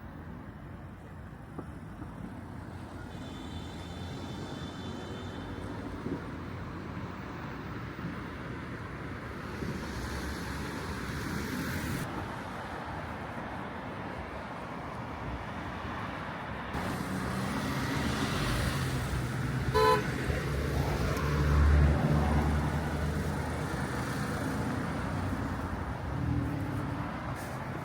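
Road traffic: a steady wash of passing vehicles and tyre noise. The noise swells in the second half with a heavy low rumble of a large vehicle going by, and a brief car horn toot sounds about two-thirds of the way in.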